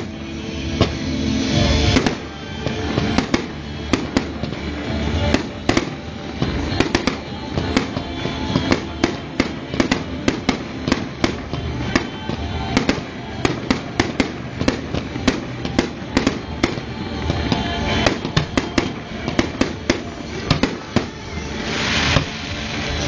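Fireworks bursting continuously: many sharp bangs and cracks, several a second at irregular intervals, with a burst of hissing crackle near the end, over music.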